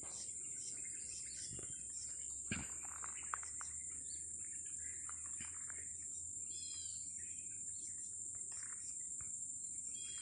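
Small birds chirping in short scattered calls over a steady high-pitched hiss, with two sharp ticks about a second apart near the start.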